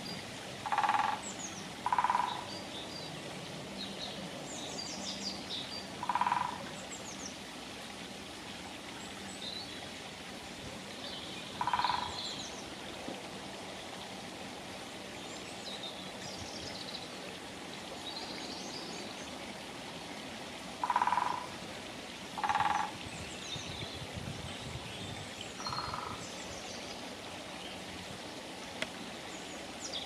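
Outdoor birdsong: a loud, harsh, low bird call repeated seven times at uneven intervals, two pairs among them, over faint high chirping of small birds and a steady background hiss.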